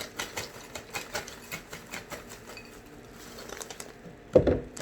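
Utz party mix being poured out: a rapid patter of small, dry, crisp pieces clattering against each other, thinning out after about three seconds. One louder thump comes near the end.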